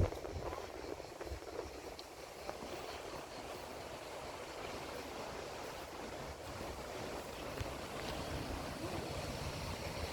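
Sea water washing against the shore in a steady hiss, with some wind buffeting the microphone in the first second or two.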